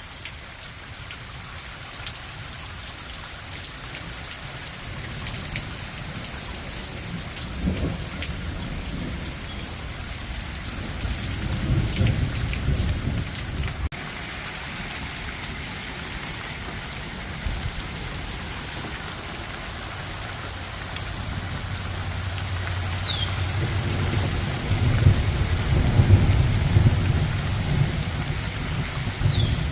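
Heavy, steady rain falling during a thunderstorm, with thunder rumbling about eight and twelve seconds in and a longer, louder roll building near the end.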